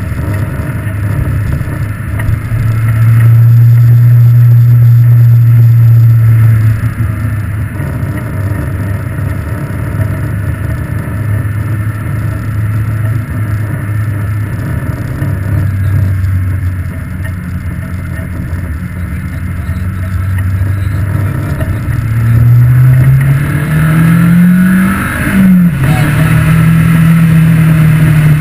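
Ariel Atom's engine heard from the open cockpit while driving. It holds a steady note, louder for a few seconds from about three seconds in. Near the end it revs up, drops sharply at a gear change, then pulls on at a higher note.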